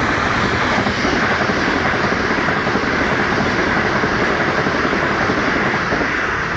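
A fast train passing through a level crossing at speed, a loud steady rush of wheel and rail noise that eases slightly near the end.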